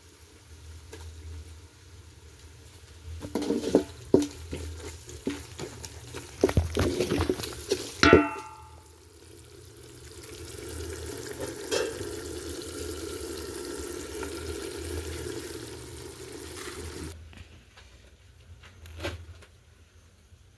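Cooking pots and utensils clattering, then one metal pot clanging and ringing about eight seconds in. A steady hiss, like food frying, follows for about seven seconds and cuts off suddenly.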